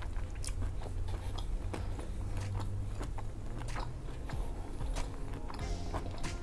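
Close-miked chewing of crunchy tortilla chips: many irregular sharp crunches as the chips are bitten and chewed, over a steady low hum.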